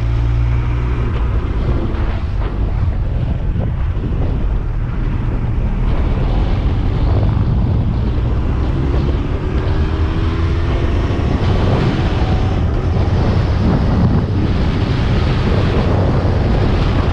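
Yamaha YZF-R1's inline-four engine under way, with heavy wind noise buffeting the camera microphone; the engine note climbs a few times midway as the bike accelerates.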